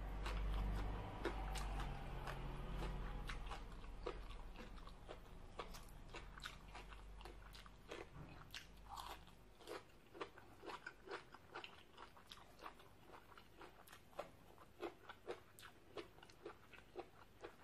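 Close-up chewing of crisp raw vegetables: a steady run of crunches, settling into about two to three a second in the second half.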